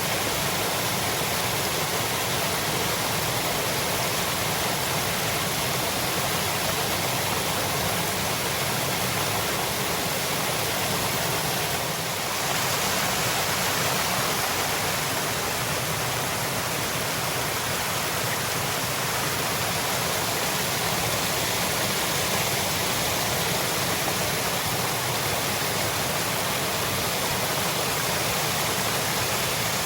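Waterfall water rushing and splashing in a steady, dense roar of noise, with a slight shift in its sound about twelve seconds in.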